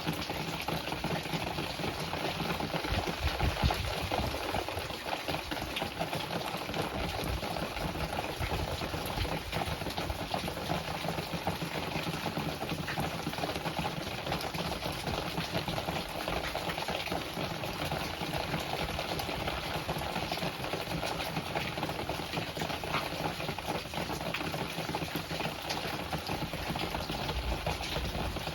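Typhoon wind and rain making a steady, crackling rush of noise with no pauses.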